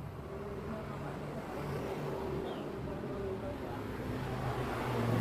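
A motor running steadily with a low hum, growing gradually louder.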